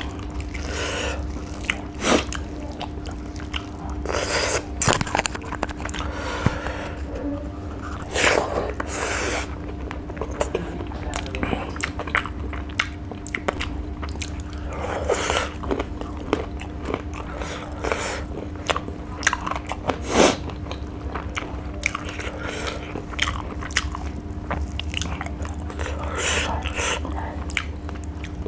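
Close-miked chewing and lip-smacking of rice and dry fish eaten by hand, with irregular crunches and wet mouth clicks. A steady low hum runs underneath.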